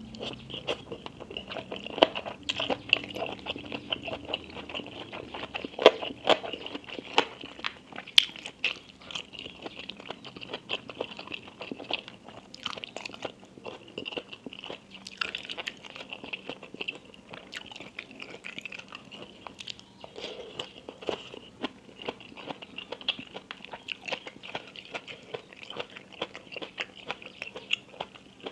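Close-miked eating: a person biting and chewing crisp food, with a steady run of sharp crunches and crackles and a few louder bites.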